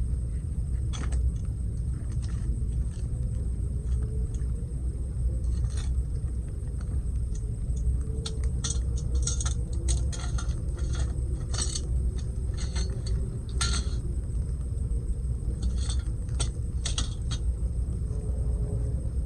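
Wood campfire crackling, with scattered sharp pops that come thickest in the middle, over a steady low rumble.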